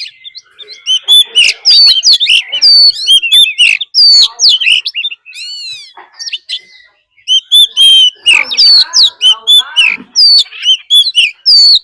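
Oriental magpie-robin singing a loud, fast song of varied whistles, slides and chirps, with a pause about halfway through. This is a decoy's fight song, used to provoke other magpie-robins.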